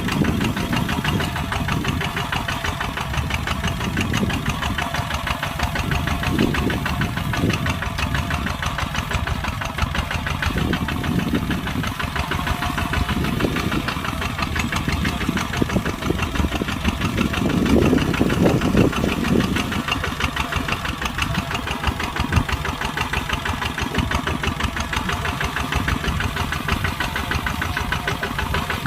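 Kubota ZT140 single-cylinder diesel tractor engine running steadily while plowing, with a fast, even knock. Its low rumble swells several times, most strongly about two-thirds of the way through.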